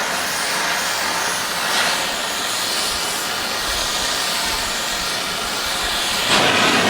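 Gas torch burning with a steady, loud hiss while heating a steel plate to bend it, shut off abruptly near the end.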